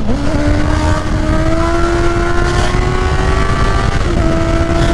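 Honda CBR650R's inline-four engine through an aftermarket full exhaust, pulling under acceleration with its pitch climbing steadily. The pitch drops briefly for an upshift right at the start and again about four seconds in, then climbs again.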